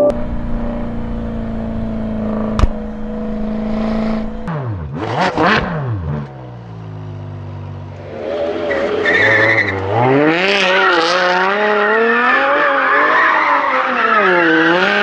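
Car engines from two clips. First an engine held at steady revs, then revved sharply up and down. Then a sports car's engine revving hard, its pitch rising and falling over and over, with tyres squealing as the car turns on tarmac.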